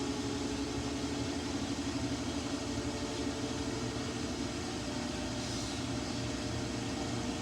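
Samsung washing machine in its spin cycle, the drum turning at low speed with a steady motor hum while it works to balance an uneven load holding a single jacket, before it gets up to fast spin.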